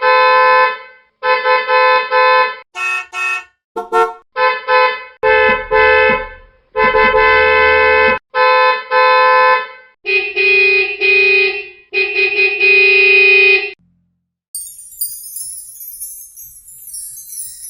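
A horn sounding in a run of steady-pitched blasts, some short and some over a second long, for about fourteen seconds. After a brief pause, a high jingling of small bells starts.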